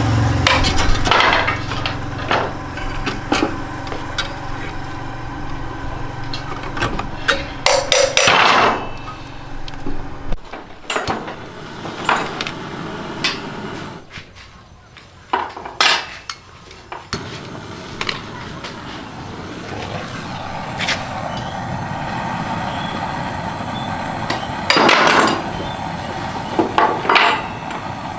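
Irregular sharp knocks and clatter of hand tools on the parts of a hot and cold water dispenser under repair, over a low steady hum that drops out for several seconds in the middle.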